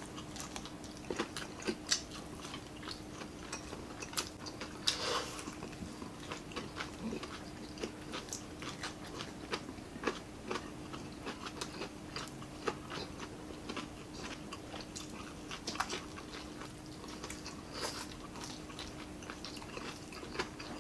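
People chewing and biting crispy fried chicken necks, with irregular crunches and clicks, over a faint steady hum.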